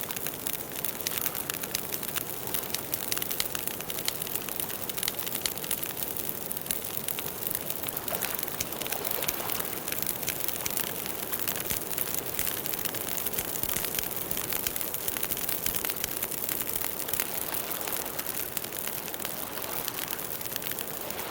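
Campfire burning, with a dense run of small crackles and pops over a steady hiss.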